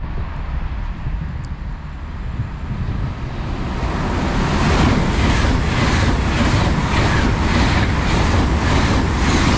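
An LNER Class 801 Azuma electric train passing through the station at speed. A rushing noise of wheels and air builds up over the first few seconds, then pulses about twice a second as the coaches go by.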